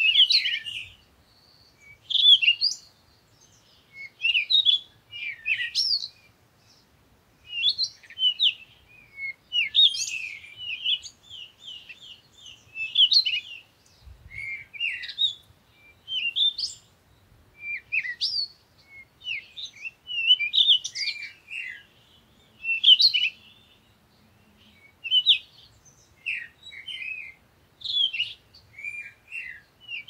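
Birds calling: short, sharp high-pitched notes in quick clusters, a burst every second or two.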